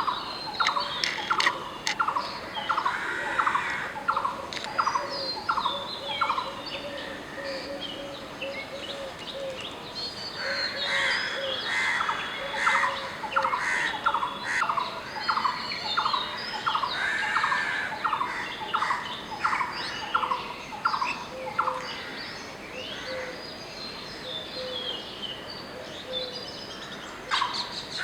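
Blue-throated barbet calling: a repeated note about twice a second in long runs, pausing for several seconds between bouts. Fainter chirps of other birds sound higher up.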